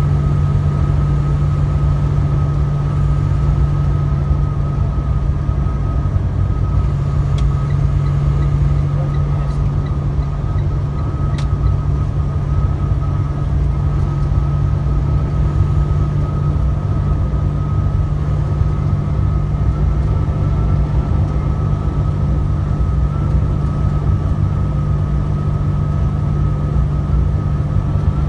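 Truck engine running, heard from inside the cab: a steady, unbroken low drone with a faint high whine over it.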